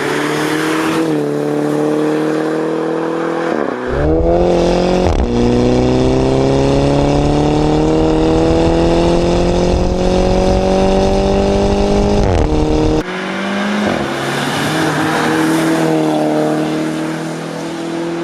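Mini Cooper S's 2.0-litre four-cylinder turbo engine through a Remus cat-back exhaust, pulling hard under acceleration. The note climbs steadily in pitch and drops briefly at gear changes about four and five seconds in and again about two-thirds of the way through.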